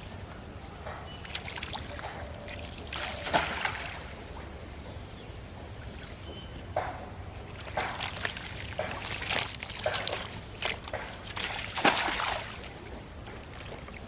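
Water splashing and sloshing in irregular bursts, loudest about three seconds in and again near twelve seconds, over a steady low rumble.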